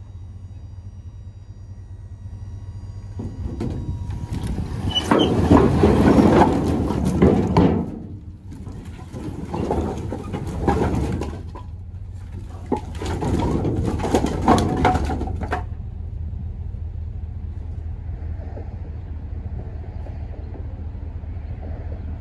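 Truck driving, a steady low engine and road drone with three louder noisy surges in the first part, then steadier.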